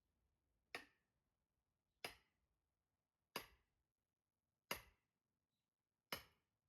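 Five sharp blows about a second and a quarter apart, striking an axe stuck fast in a log of firewood to drive it through. Each hit is a hard crack that dies away quickly.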